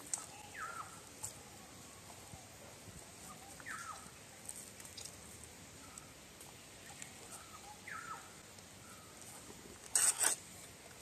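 A bird calling a few times with short, falling calls over quiet outdoor background. Just before the end comes a brief, loud noisy rustle.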